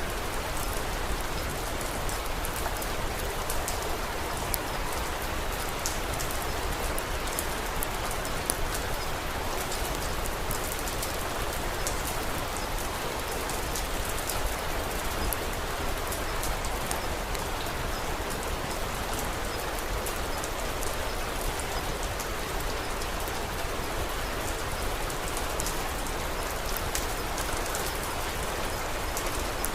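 Steady rain falling, with many small sharp ticks and pops scattered through it.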